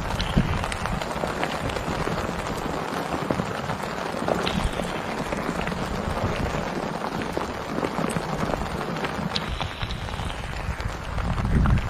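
Heavy rain falling steadily, with many separate drops ticking sharply on a surface.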